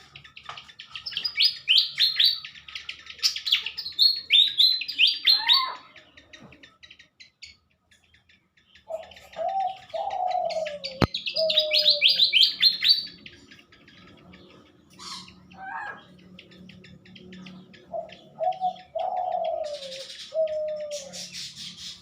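Malaysian pied fantail (sikatan kipas) singing two runs of quick high notes: the first starts about a second in, the second about ten seconds in. Lower, falling calls come in between and near the end, from a second bird.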